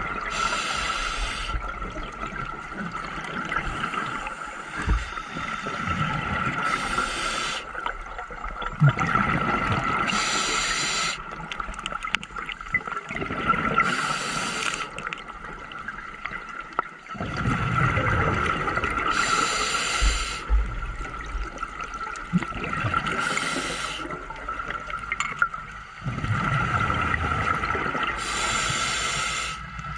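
Scuba diver breathing through a regulator underwater: a short hiss every few seconds and bubbling gurgles between them, about seven breaths in all. A steady thin whine runs underneath.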